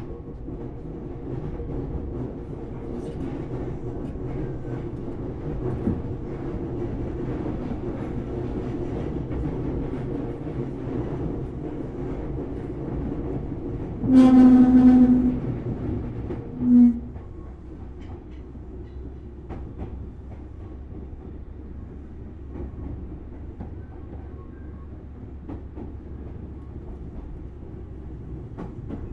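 Running sound inside a Tobu Series 6050 resistor-controlled motor car: a steady rail rumble. About halfway through, a train horn sounds one long blast and then a short one, the loudest thing heard. After that the running noise is a little quieter.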